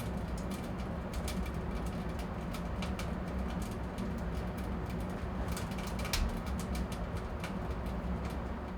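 Wood fire burning inside a closed wood stove with its air inlet open: a steady low rumble from the draft, with frequent crackles and pops from the logs and a sharper pop about six seconds in. The fire has just caught and is building up heat.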